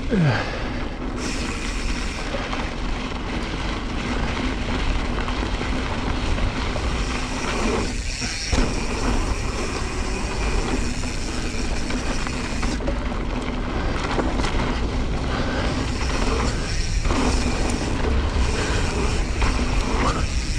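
Wind rushing over the camera microphone and knobby mountain-bike tyres rolling and crunching over a dry, loose dirt trail on a fast descent, a steady rumbling noise with small rattles. A brief falling tone right at the start.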